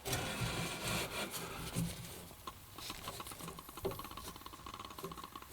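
Electronic refrigerant leak detector (H10) ticking rapidly at a leaking evaporator coil, mixed with rubbing and scraping as it is handled around the coil. The fast ticking marks refrigerant being picked up at the leak.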